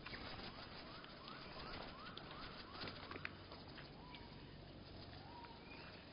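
Bird calls slowed to one-third speed: a quick series of about eight short rising notes, then a few slower, drawn-out rising glides, with scattered sharp clicks.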